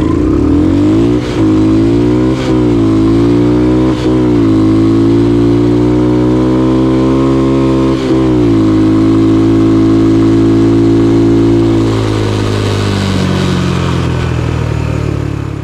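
Small single-cylinder Honda dirt bike engine accelerating hard from a standing start through the gears, its pitch climbing and then dropping back at each shift, about one, two and a half, four and eight seconds in. It then holds a steady high speed and eases off near the end.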